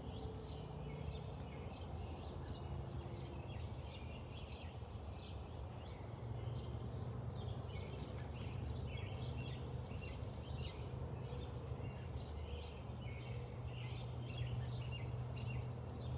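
Small birds chirping: many short, high calls overlapping almost without a break, over a steady low rumble.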